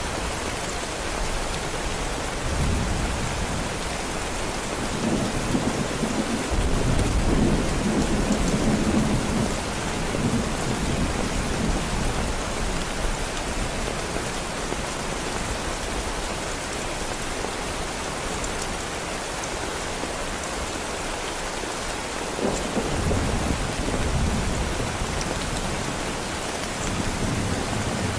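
Heavy rain falling steadily, with thunder rolling several times; the loudest rumble comes about seven to ten seconds in, another just past twenty seconds, and one more builds near the end.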